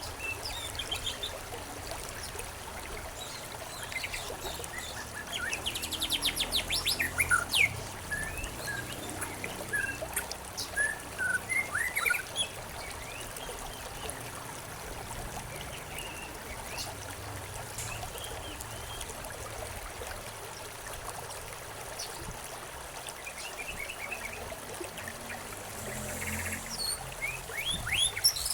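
Several small birds chirping and calling over a steady trickle of running water. The calls come in clusters, busiest in the first half and again near the end.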